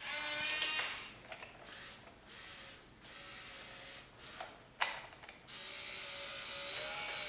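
Small electric motors of a 1/14-scale RC log loader whirring in a series of short runs that start and stop, with a sharp click a little under five seconds in.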